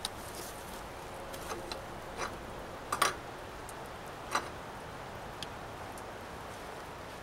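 Steady hiss of falling rain with a few scattered sharp clicks and knocks, the loudest about three seconds in and another just after four seconds.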